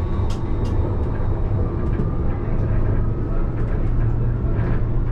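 Alstom Citadis tram running along the track, heard from the driver's cab: a steady low rumble with a faint whine and scattered light ticks.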